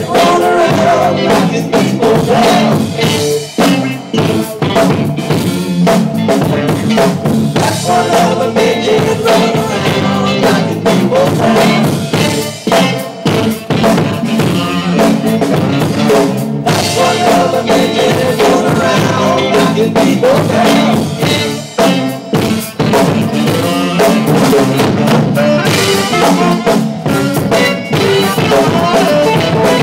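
Live rock band playing an instrumental passage without vocals, drum kit driving the beat under held pitched instruments.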